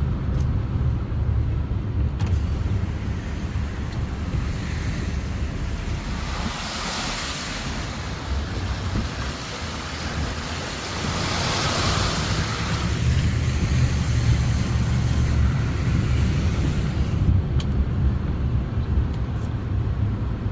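Car driving through water on a flooded road: a steady low road-and-engine rumble, with rushing, hissing water spray that swells up twice, about six and twelve seconds in.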